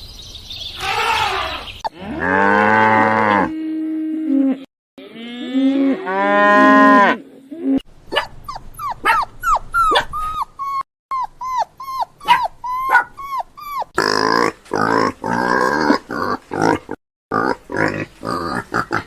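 Farm animals calling one after another: a cow mooing twice in long, low calls, then a run of short, high chirps, then a quick series of rougher calls near the end.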